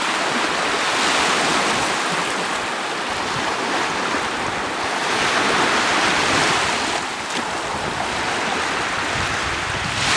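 Lake Huron surf washing onto the beach, with wind on the microphone; the wash swells louder about five seconds in.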